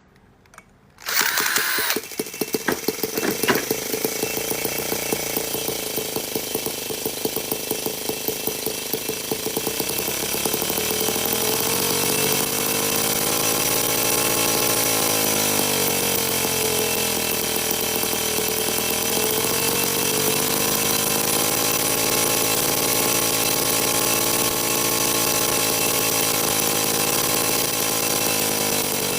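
Miniature 2.2cc twin-cylinder four-stroke model engine starting about a second in and running with a high, buzzing note. From about ten seconds on its speed swings slowly up and down.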